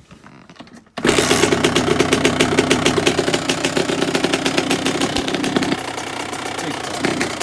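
Kawasaki two-stroke dirt bike engine idling as it warms up from a cold start, its choke just turned down. The rapid, even firing comes in suddenly about a second in and dips slightly in level for a moment near the end.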